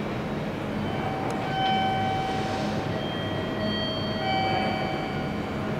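JR Kyushu 817-series electric train running slowly in toward the platform over curving track. Several steady high-pitched tones come and go over the rumble of the wheels.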